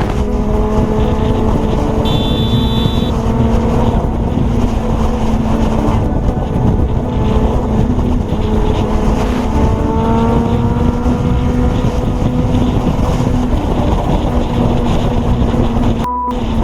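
Motorcycle engine running at road speed under a steady rush of wind, its pitch climbing slowly twice as the bike accelerates. A short high beep sounds about two seconds in. Near the end the noise briefly drops out behind a single steady tone.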